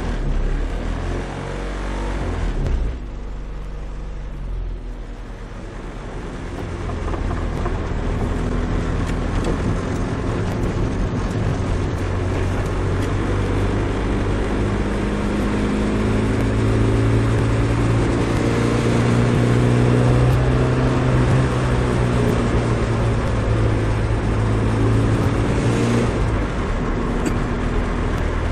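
Nissan Micra 1.3's four-cylinder engine running through a custom exhaust, with a low exhaust drone. It eases off a few seconds in, then builds and holds, the low drone strongest in the second half. The drone is an exhaust resonance that the owner means to cancel with a J-pipe.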